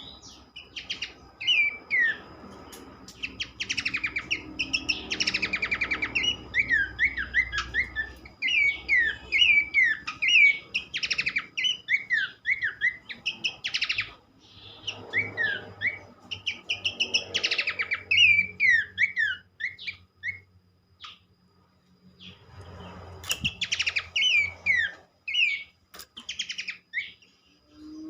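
Pelanduk semak (Horsfield's babbler) song played as a lure recording: quick bursts of short, sweeping whistled notes, repeated in phrases with brief pauses, over a faint steady high tone.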